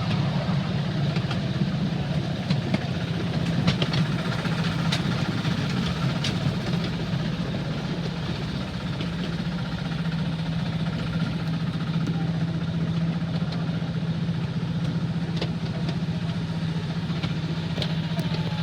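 An engine idling steadily with a low, even hum and a few faint clicks.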